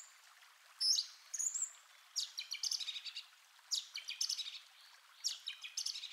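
A songbird singing: four short phrases of rapid high notes and trills, one about every second and a half, with brief pauses between them.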